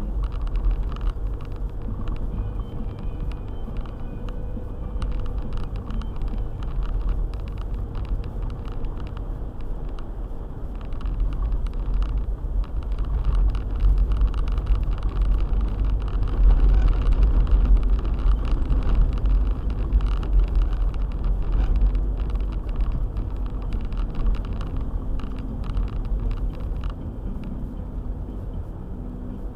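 Four-wheel-drive car driving on a winter road: a steady low rumble of engine and tyres with frequent small knocks, growing louder for several seconds in the middle.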